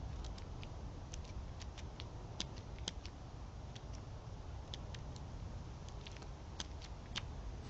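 Animals feeding on scattered seed and nuts: irregular light clicks and taps, about two or three a second.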